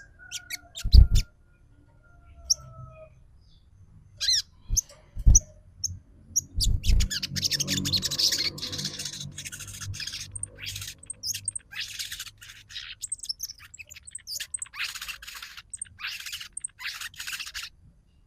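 Sogon songbird calling: a few scattered chirps and whistles at first, then, about six seconds in, a long run of fast chattering 'trotol' calls. Several low thumps sound in the first seven seconds.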